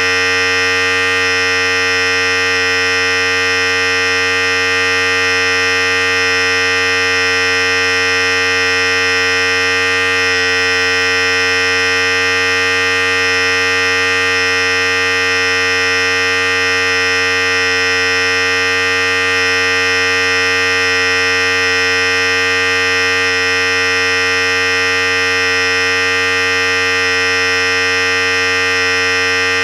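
Philips Series 5000 electric hair clipper running steadily at one unchanging pitch, its level constant throughout.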